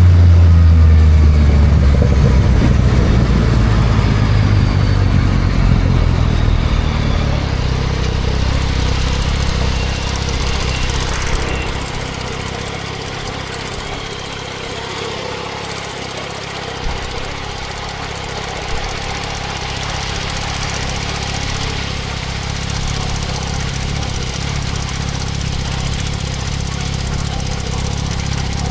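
2024 Yamaha MT-09 SP's 890 cc inline-three breathing through a Spark full exhaust, slowing down on the engine over the first several seconds with its pitch falling, then settling to a steady idle. A steady hiss of wind and road noise runs under it.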